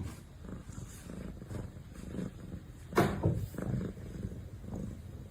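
A cat purring, a low pulsing rumble, with one brief louder sound about three seconds in.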